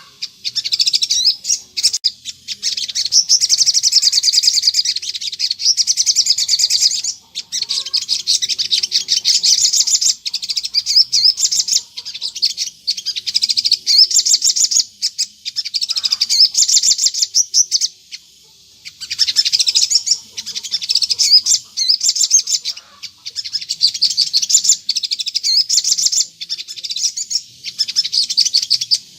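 Olive-backed sunbird (sogon) singing a rapid, high-pitched twittering song in long unbroken runs, pausing briefly about 7 seconds in and again around 18 seconds in.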